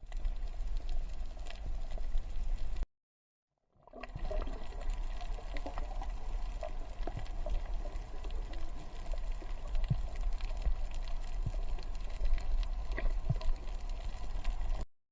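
Water gurgling and sloshing with a steady low rumble and scattered sharp clicks, cut off by a brief dropout about three seconds in.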